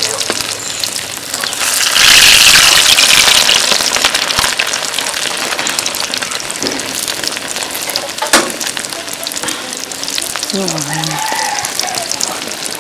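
Foli fish koftas deep-frying in hot oil in an iron karahi, a continuous sizzle and crackle that swells loudest about two seconds in and then settles. A single sharp click comes a little past eight seconds.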